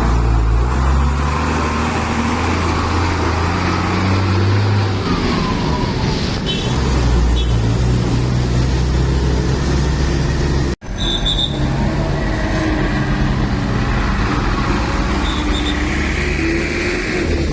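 Heavy trucks loaded with sugarcane running close by, their diesel engines' note rising and falling over a steady background of traffic noise. The sound cuts out for an instant about eleven seconds in.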